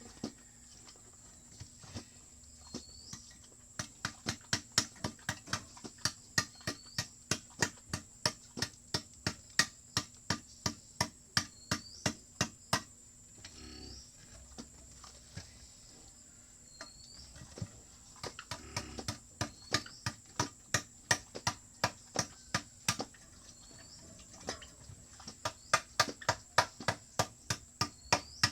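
Hammer strikes in quick, even runs of about three a second, in two long spells with a pause of a few seconds between them. A faint short chirp recurs now and then above them.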